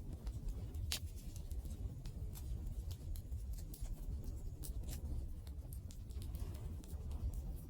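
Wood fire burning: a steady low rumble with irregular sharp crackles and pops from the burning wood, the loudest about a second in.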